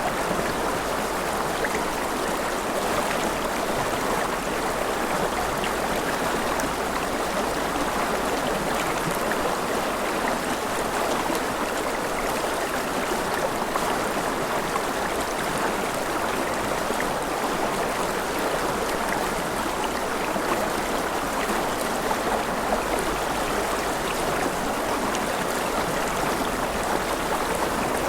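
Steady rain: an even, unbroken rush of water with faint scattered drop ticks, continuous throughout.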